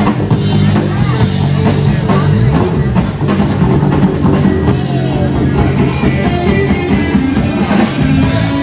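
Loud rock music with drum kit and electric guitar.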